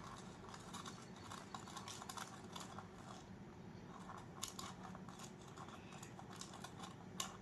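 Faint, irregular small clicks and gritty scrapes: a spoon scooping a granular volcano-kit powder and tipping it slowly into the volcano.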